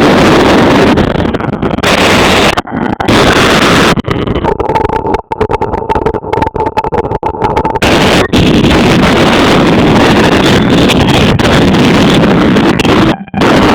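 Motorbike riding at speed, its engine mixed with heavy wind rumbling on the microphone; the sound drops out briefly several times.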